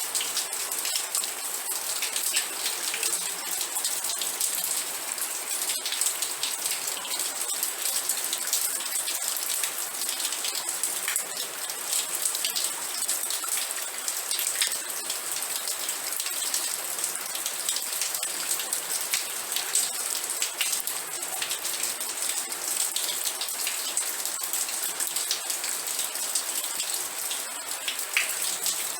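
Steady rain falling on a surface, a dense patter of many close drops that keeps an even level.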